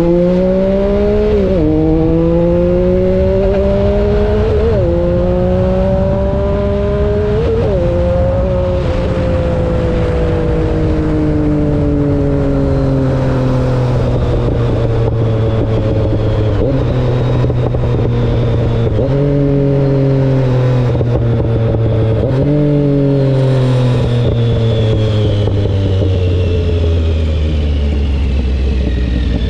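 Triumph Speed Triple three-cylinder motorcycle engine through its exhaust, accelerating hard through the gears with three upshifts in the first eight seconds. It then slows down, with three rev blips on downshifts in the second half, and the engine note falls near the end.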